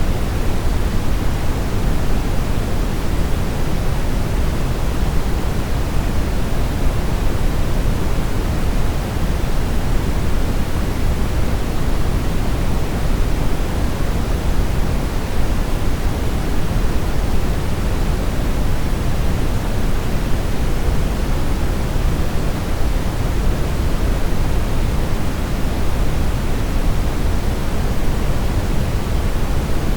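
Brown noise: a steady, even rushing hiss weighted heavily toward the low end, like a deep rumble.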